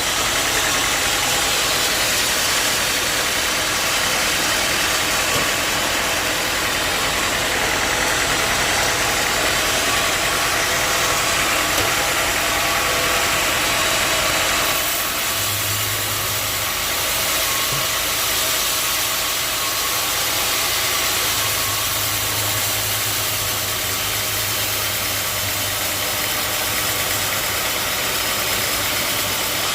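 Sawmill running: steady engine-driven machine noise with a saw's hiss, which changes about halfway through as the high hiss drops and a low hum comes in and out.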